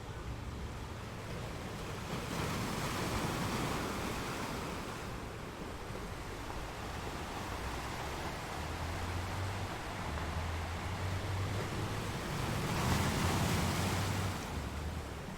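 Sea waves breaking and washing against rocks, a continuous rush with two louder surges: one about two seconds in and a stronger one near the end.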